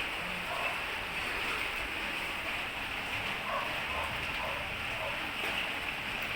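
Steady rushing of floodwater, an even wash of water noise with no clear breaks.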